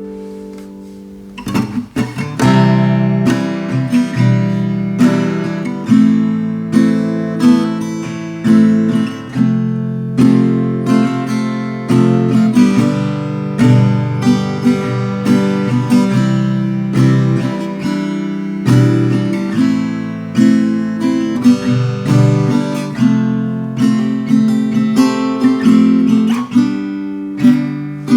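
Veelah Mini Camper R mini acoustic guitar played with no added effects: a chord rings out and fades, then strummed and picked chords resume about two seconds in, with a new attack about every second.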